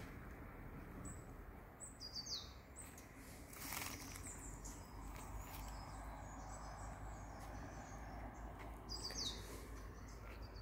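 Faint birds calling: a few short, high, falling chirps about two seconds in and again near the end, over a low steady outdoor background.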